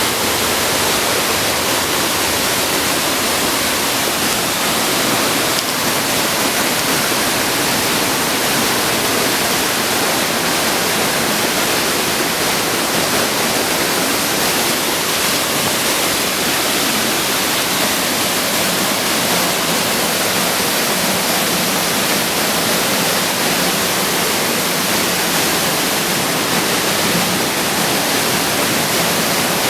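Waterfall rushing, a steady, loud, unbroken roar of falling water.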